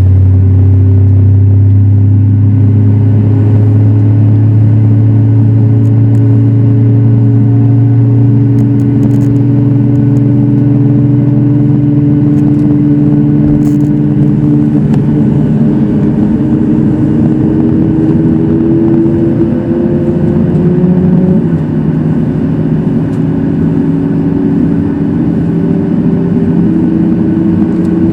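Boeing 737 MAX 8's CFM LEAP-1B turbofan engines spooling up to takeoff thrust, heard from the cabin over the wing. There is a loud steady drone with a whine whose pitch climbs slowly, over runway rumble.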